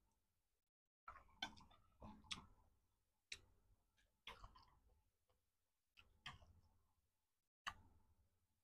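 Quiet eating sounds of someone chewing noodles: about nine short mouth clicks and smacks, each fading quickly, spaced irregularly with silence between.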